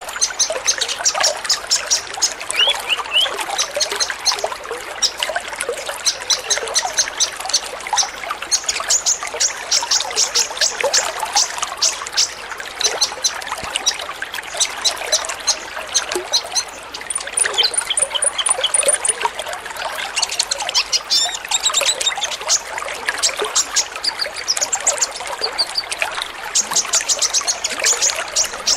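A chorus of many sunbirds (kolibri ninja) chirping and twittering at once, with dense rapid high-pitched notes overlapping continuously.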